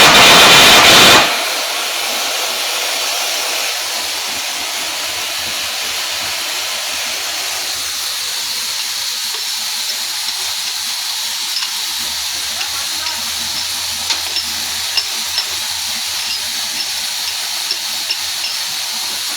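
Stick (shielded metal) arc welding: the arc gives a steady frying hiss with a fine crackle and small scattered pops. For about the first second a louder, harsher noise covers it.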